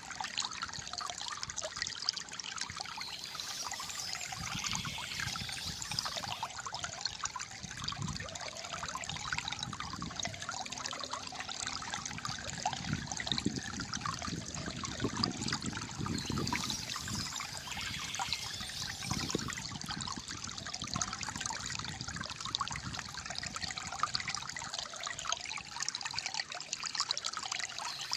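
Shallow flowing water trickling and gurgling steadily, with deeper bubbling swells now and then.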